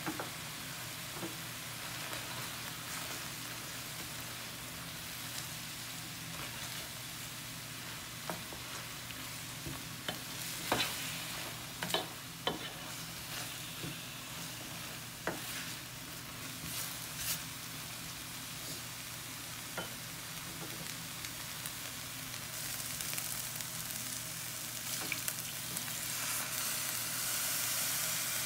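Chicken livers and gizzards sizzling in a stainless steel pan while a slotted wooden spatula stirs them, knocking now and then against the pan. The sizzle grows louder near the end.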